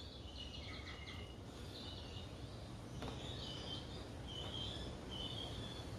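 Birds chirping in the background, first a quick run of short chirps, then single chirps about once a second, over a low steady hum.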